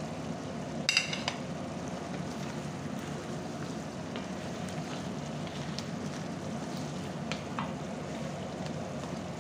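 Chicken karahi frying in oil in an iron karahi, a steady sizzle and bubble as the oil separates from the masala, the sign that the dish is nearly done. A sharp knock of a utensil on the pan about a second in, and a few faint ticks later.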